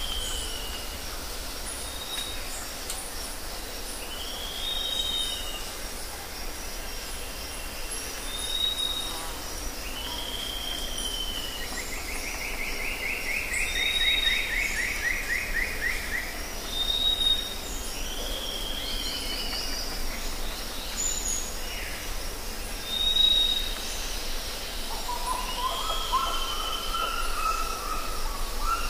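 Wild birds calling over a steady low rumble: short whistled notes every couple of seconds, a long descending trill about twelve seconds in lasting some four seconds, and lower, slurred calls near the end.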